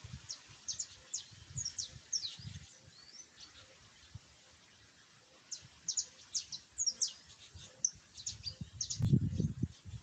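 Small birds chirping: quick series of short, high, falling notes, in one bout over the first three seconds and another from about five and a half seconds. Near the end, a low rumbling on the microphone is the loudest sound.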